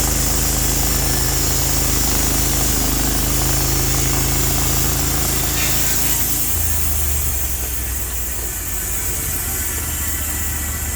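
Portable sawmill's engine running steadily, with a high hiss over it. About six and a half seconds in, the engine note drops lower and the hiss fades.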